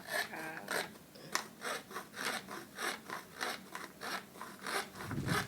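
Rhythmic back-and-forth hand strokes working a piece of plywood, about three strokes a second, with a low rumble of handling near the end.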